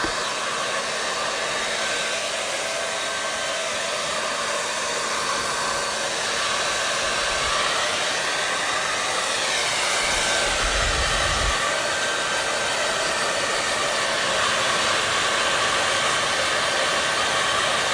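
Hair dryer running continuously: a steady, even blowing rush with a faint motor whine.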